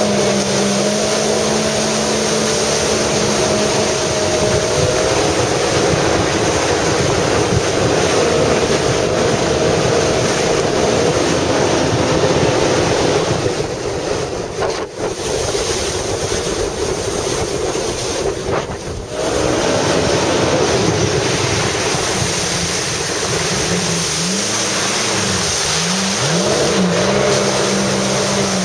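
Jet ski engine running at speed over a steady rush of wind and water. The engine note drops away briefly twice around the middle, then revs up and down a few times near the end.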